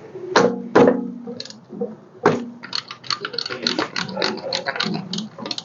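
A ratchet wrench clicking and metal tools clinking while the starter bolts are loosened on a Ford 5.0-litre engine: a quick, irregular run of sharp clicks, thickest in the second half, with a short low grunt or two of effort near the start.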